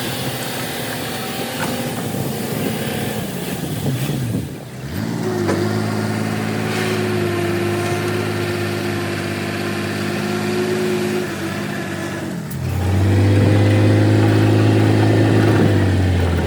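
Heavy diesel engine of earthmoving equipment running steadily, its note changing abruptly about four and a half seconds in and again near twelve and a half seconds, after which it is louder.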